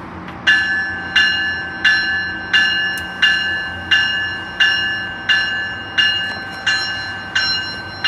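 A locomotive bell ringing steadily at about one and a half strokes a second, starting about half a second in: the bell of a train about to depart after its station stop.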